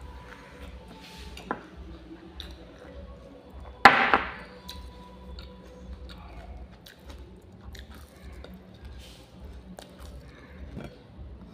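A person chewing sticky, syrupy jalebi, with small mouth clicks and scattered faint clicks. One short, loud pitched sound comes about four seconds in.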